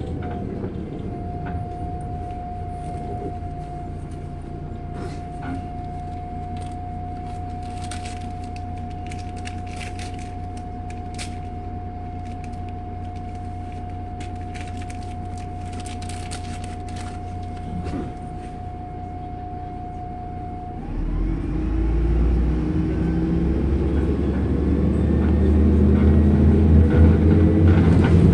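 Inside a MAZ-105 articulated city bus: the diesel engine runs low and steady while the bus stands, with a steady high whine and light rattles and clicks from the cabin. About 21 seconds in, the engine revs up and the bus pulls away, the engine pitch rising and the sound growing louder as it accelerates.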